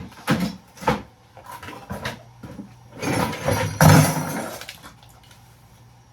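Loose scrap metal pieces clattering: a few sharp knocks, then a longer, louder rattle about three seconds in.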